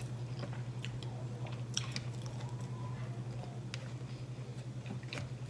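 Close-miked chewing of fried chicken, with a few small wet clicks scattered through, over a steady low hum.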